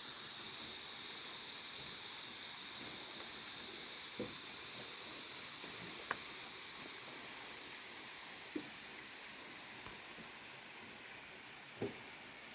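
Steady high-pitched outdoor hiss with four brief faint knocks spread through it. The highest part of the hiss drops away about ten seconds in.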